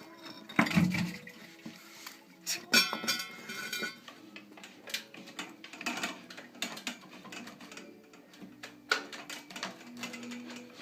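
A series of metallic clinks and knocks, irregularly spaced; one strike about three seconds in rings briefly.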